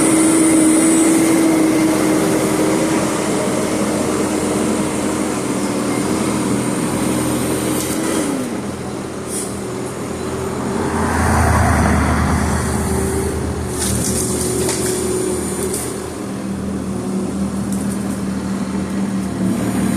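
Merlo telescopic handler with a tree-cutting hot saw and grapple running: a steady machine hum that drops in pitch about eight seconds in, a louder rushing swell around eleven to twelve seconds, then a lower steady hum.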